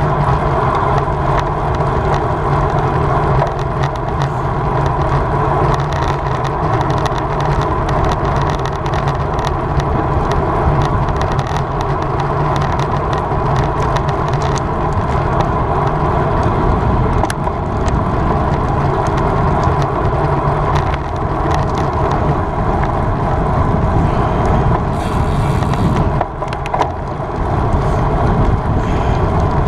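Steady wind and road noise from riding a road bike at race speed, with many small ticks and rattles running through it and a brief dip about 26 seconds in.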